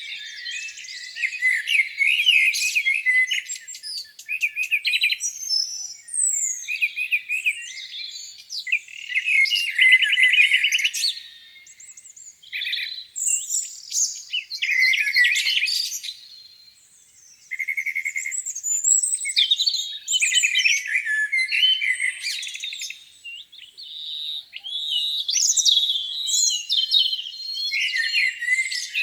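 Several songbirds singing at once in a spring morning chorus: overlapping high chirps, whistles and fast trills, with a short lull a little past halfway.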